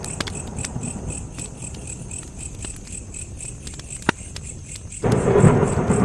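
Campfire crackling with scattered sharp pops, the loudest about four seconds in, over a cricket chirping steadily about three to four times a second. A low rumble fades out early on and comes back suddenly about five seconds in.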